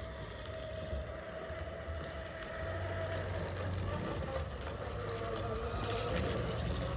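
Kids' electric motorbike running, a low rumble with a faint steady motor whine that dips in pitch about five seconds in and then climbs back.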